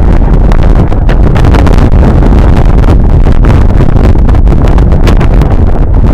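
Strong gusting wind buffeting the microphone: a loud, crackling low rumble that drowns out everything else.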